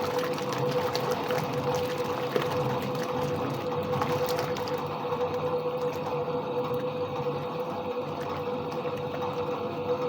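Soviet washing machine running a wash: a steady motor hum with one constant tone, over water churning in the tub.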